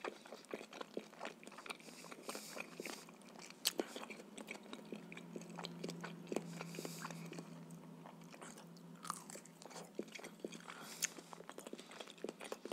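Close-miked chewing and biting, with many small sharp mouth clicks; between the middle and the end a soft baked potato is bitten into.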